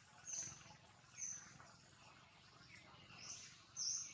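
Wild birds chirping: about four short, high-pitched chirps, the last the loudest, over faint outdoor background noise.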